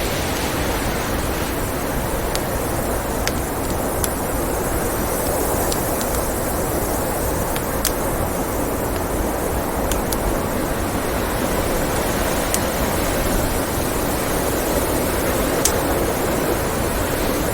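Steady blizzard wind noise, with scattered sharp pops and crackles from a wood fire in a fireplace.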